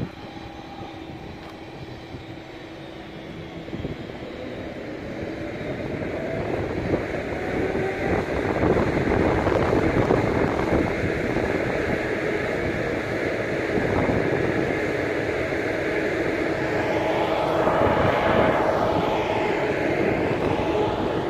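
Train running on the station tracks: a rumble that builds up over the first several seconds and then holds, with whining tones sweeping up and down near the end.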